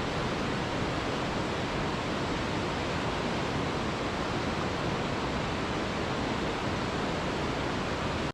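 Mountain river rushing: a steady, even roar of water with no change.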